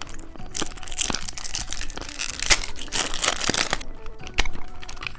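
A candy wrapper crinkling and tearing as it is opened, in a dense run of crackles for most of the time, then a few separate clicks near the end.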